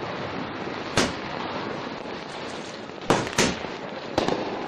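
Fireworks exploding: one sharp bang about a second in, then four more in quick succession from about three seconds in, over a steady background hiss.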